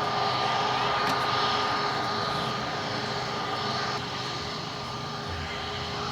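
COMAC C919 airliner's CFM LEAP-1C turbofan engines heard in flight: a steady rushing roar with a high whine, slowly fading.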